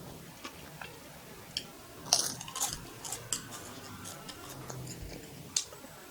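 Light clicks and clinks of a spoon against a plate while eating fried rice, scattered, with a quick cluster about two seconds in.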